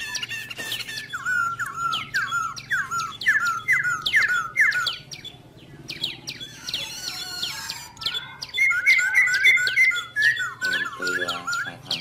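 A songbird singing a rapid series of short whistled notes, each slurring downward, repeated two to three times a second. The song comes in two runs with a pause in the middle, with fainter higher chirps from other birds.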